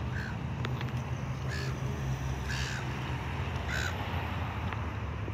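Ford Cortina GL's engine idling steadily at the tailpipe, with a crow cawing four times over it.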